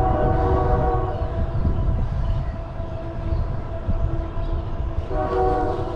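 A horn, heard as a chord of steady tones, sounds for about a second at the start and again about five seconds in. A faint steady tone carries on in between, all over a heavy low rumble of wind on the microphone.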